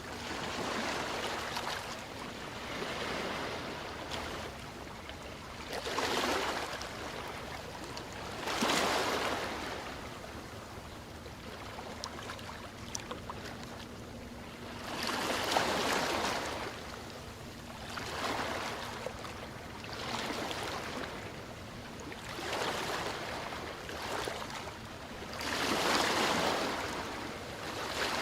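Ocean waves breaking and washing in, one swell after another every two to three seconds, each rising and then fading back into a steady hiss of surf.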